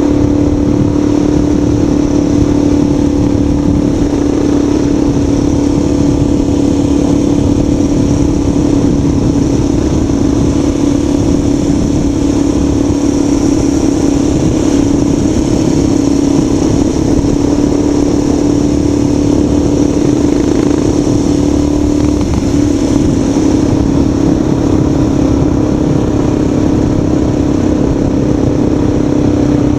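Vehicle engine running at a steady speed, a constant hum over a heavy low rumble of wind and road noise.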